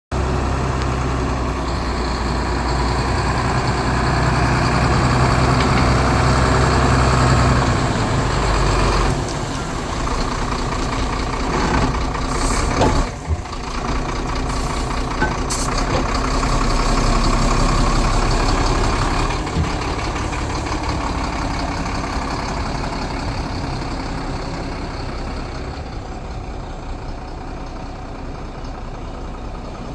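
Sinotruk Howo 371 hp tractor truck's diesel engine running, revved up over the first several seconds and dropping back to a steadier run about nine seconds in. A brief air hiss comes about twelve to thirteen seconds in, and then the engine settles and slowly grows quieter.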